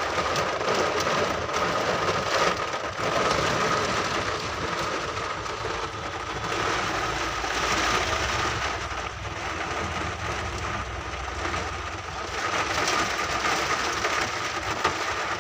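Storm wind with rain: a continuous rushing noise that swells and eases in gusts, with a thin steady whine running underneath.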